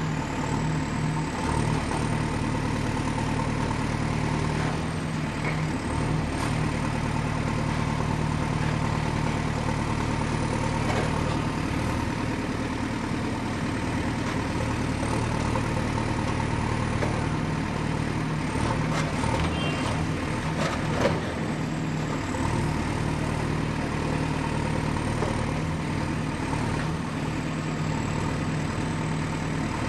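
Excavator's diesel engine running steadily with a low hum, and a short run of metallic knocks about two-thirds of the way through, one sharper than the rest.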